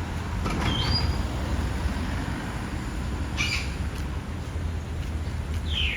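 Garbage truck engine running with a steady low rumble. Three short high-pitched chirps cut through it: about a second in, midway, and a falling one near the end.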